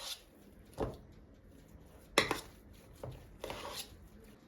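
Dishes and cutlery clinking as they are handled, in a few separate knocks; the loudest comes about two seconds in.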